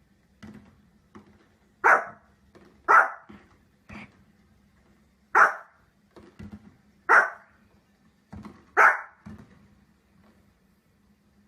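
A dog barking single loud barks, five of them spaced one to two and a half seconds apart, with fainter short sounds in between.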